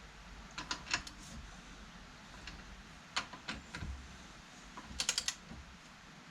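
Short bursts of sharp metallic clicks from a ratchet spanner tightening bolts on a tractor hydraulic pump, with a quick run of clicks near the end.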